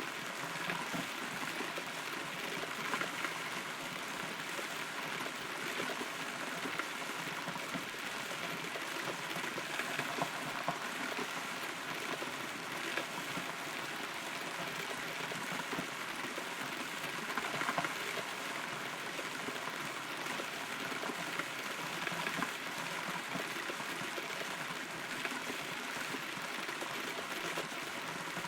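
Steady rain pattering on wood, heard from inside a hollow rotten tree trunk, with many fine drops and a few slightly louder drips.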